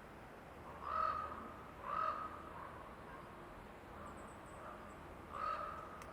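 A large bird in the forest calling: two loud calls about a second apart, a fainter call or two in the middle, and another loud call near the end. A few faint high chirps from a small bird come in the middle.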